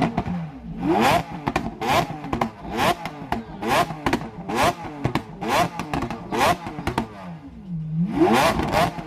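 Lamborghini Aventador LP700-4's V12 engine revved hard on the spot in quick repeated blips, each a rising sweep in pitch cut off with sharp cracks and pops from the exhaust. It drops briefly to idle near the end, then is revved again.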